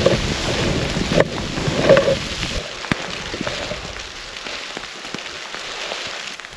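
Wind buffets the microphone for the first two to three seconds, then cuts away. After that comes a steady hiss with a light, irregular patter of precipitation ticking on a surface.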